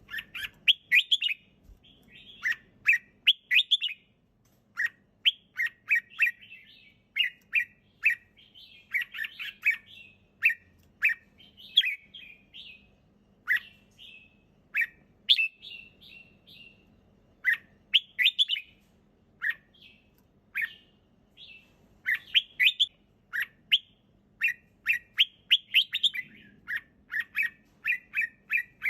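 Red-whiskered bulbul singing: short, quick, bubbly phrases of whistled notes repeated about every second, with brief pauses between bouts.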